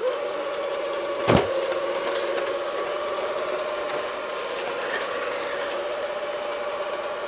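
Robot vacuum cleaner running: a steady motor whine over a hiss, with a single sharp knock a little over a second in.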